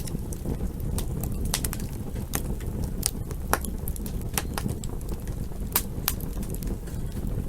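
Wood campfire crackling: irregular sharp pops and snaps, a few each second, over a steady low rumble of burning.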